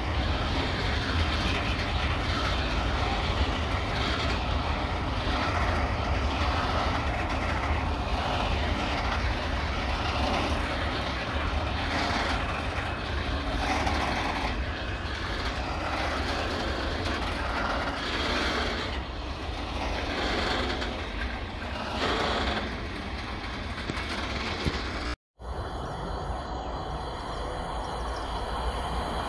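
A train running through the station, a steady rumble with wheels clattering rhythmically over the rails. About 25 seconds in the sound drops out abruptly for a moment and comes back steadier.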